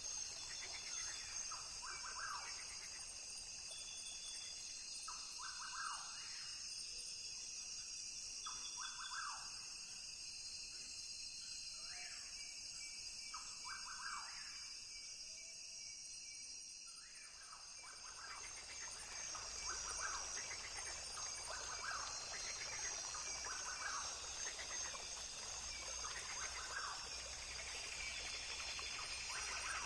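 Rainforest ambience: a steady, high drone of insects with short calls repeating every second or two. About two-thirds of the way through, the chorus grows fuller and a low rumble joins in.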